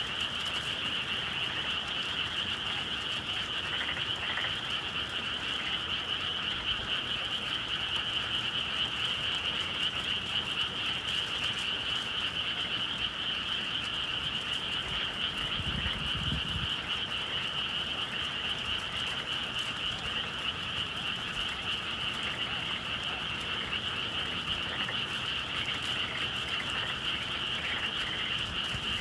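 A dense chorus of frogs calling without pause, a steady shrill wall of many overlapping calls. A brief low rumble comes about halfway through.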